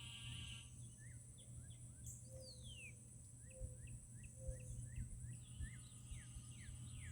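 Faint outdoor wildlife chorus: a steady high insect drone under a bird's many short falling chirps, with one longer falling whistle about two seconds in. There are three short low calls in the middle.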